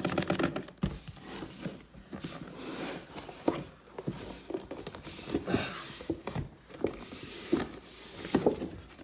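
A hairdryer box being opened and handled by hand: scattered knocks and taps with short bursts of scraping and rustling of the box and its packaging.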